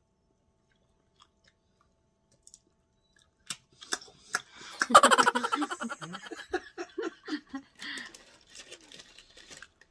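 Near silence for about three seconds, then chewing and crunching mouth noises, and people laughing and giggling from about five seconds in.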